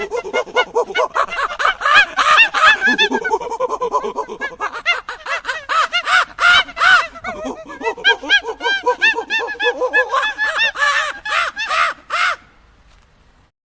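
A flock of birds calling, a dense chorus of short overlapping calls that cuts off about twelve seconds in.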